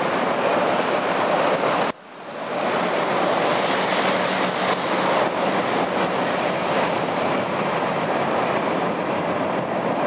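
BNSF grain train's covered hopper cars rolling over a steel railroad bridge: a steady rushing rumble of wheels on rail. The sound drops out suddenly about two seconds in and swells back within half a second.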